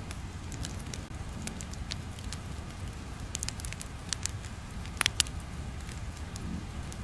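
Wood fire crackling over a steady low rumble, with irregular small pops and a cluster of three sharper, louder pops about five seconds in.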